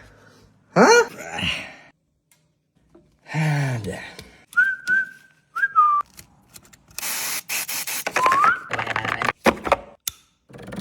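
A person whistling a few short notes, one of them rising, between brief wordless vocal sounds. Several sharp clicks and knocks come in the second half.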